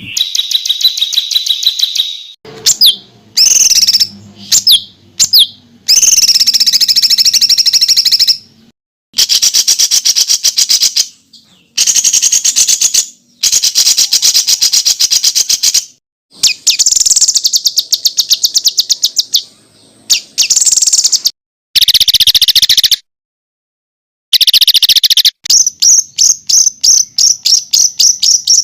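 Caged songbird singing loud, fast strings of rapid repeated high notes, the dense rattling 'tembakan' phrases used as training song (masteran) for contest birds. The phrases start and stop abruptly, with several short silent gaps between them.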